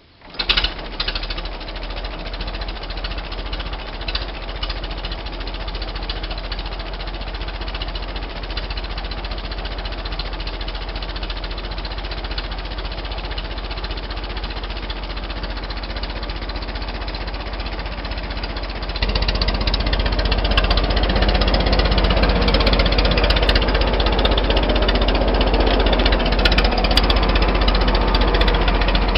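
1926 Fordson Model F tractor's four-cylinder engine starting and catching about half a second in, then running steadily with a dense, rapid knock. It gets louder and fuller about two-thirds of the way through.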